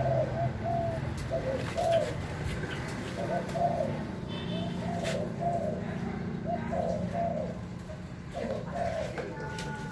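Doves cooing, a steady run of short rising-and-falling coos that overlap one another.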